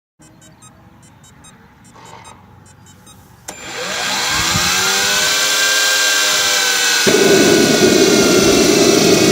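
Jetcat model gas turbine in the EC135 scale helicopter starting up: faint ticking at first, then a whine that begins suddenly about a third of the way in and rises in pitch as the turbine spools up, with a louder steady rushing sound joining about three-quarters through as it lights and runs.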